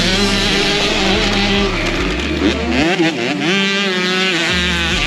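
Several motocross dirt bike engines revving and accelerating hard together, their pitches climbing and dropping as the riders shift.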